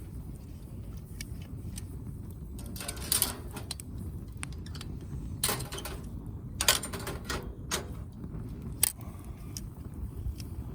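Firewood burning in a Uniflame wood grill fire stand: scattered sharp crackles and pops, about five of them loud, over a steady low rumble.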